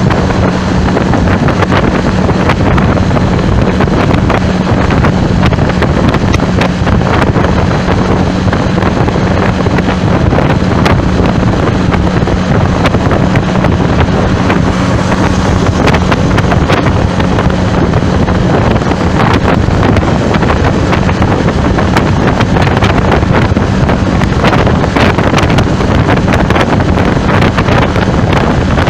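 Loud, steady wind buffeting the microphone, with a steady low hum of traffic underneath.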